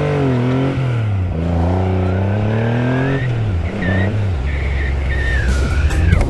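Triumph Rocket 3's three-cylinder engine accelerating hard. The pitch climbs, drops at a gear change about a second in, and climbs again. It falls as the throttle closes about three seconds in, then settles to a lower steady note.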